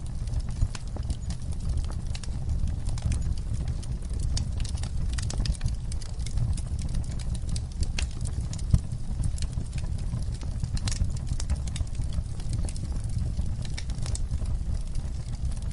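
Wood fire burning with a steady low rumble of flames and irregular crackles and pops, a few sharper snaps standing out.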